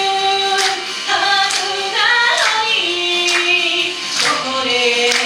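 A female singer singing a pop song over a backing track with a steady beat.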